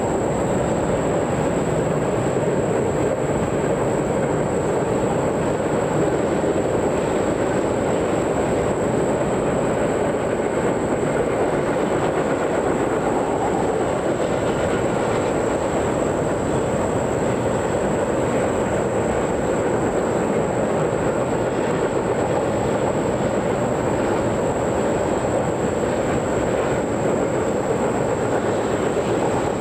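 Train cars rolling past on steel rails, a steady unbroken rumble of wheels on track, with a thin steady high whine over it.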